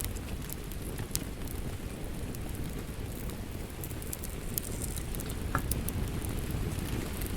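Wood fire crackling with scattered sharp pops over a steady patter of rain.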